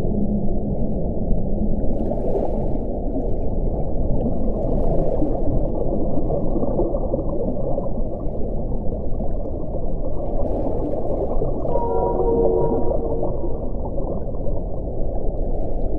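Wind blowing in a steady, low rush, swelling in a few gusts, with faint whistling tones coming and going in it.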